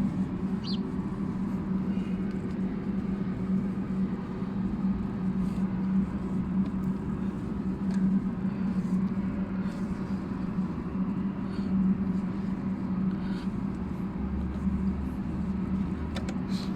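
A motor running steadily at a constant pitch, with a few faint clicks.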